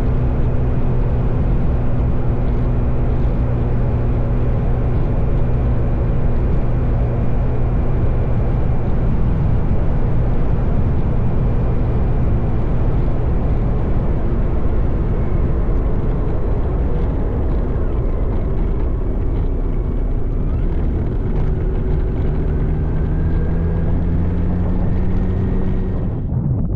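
Motorcycle engine running steadily at road speed under wind and road noise. Its pitch shifts about a third of the way in and rises slowly near the end as the revs build.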